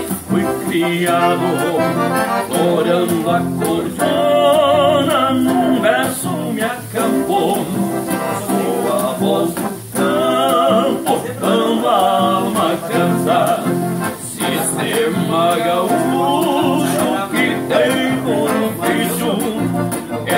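Scandalli piano accordion playing quick ornamented melody runs over a strummed acoustic guitar accompaniment, in southern Brazilian gaúcho style.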